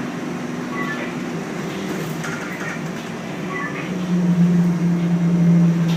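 Scania L113CRB bus's 11-litre six-cylinder engine running, heard from on board. It gets louder about four seconds in, with a strong steady low hum.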